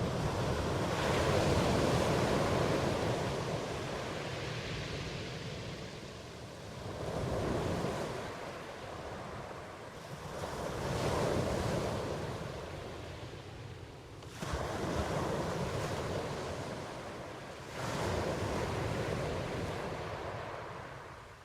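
Ocean surf: waves breaking and washing in, about five surges that each swell into a rush of noise and fall back over a few seconds.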